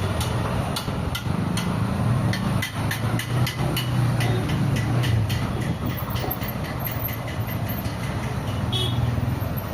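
Road traffic noise while driving: a steady low engine hum with a run of sharp clicks and rattles, and a brief horn toot about nine seconds in.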